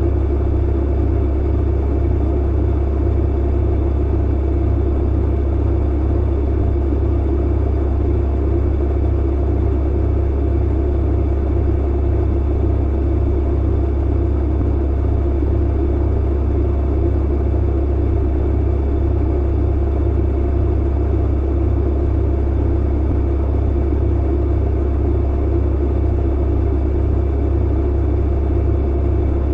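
Clothes dryer running: a steady low rumble and hum that does not change or break.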